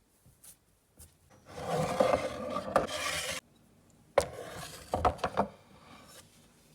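A rasping scrape that lasts about two seconds, followed about a second later by a few sharp knocks and short scrapes.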